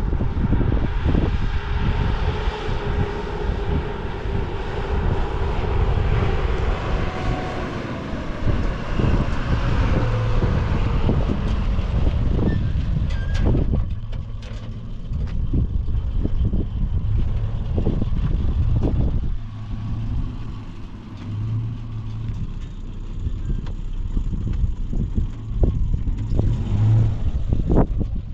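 A motor vehicle running: a steady low rumble with many short knocks and jolts, and a faint engine whine that falls slowly in pitch during the first ten seconds or so.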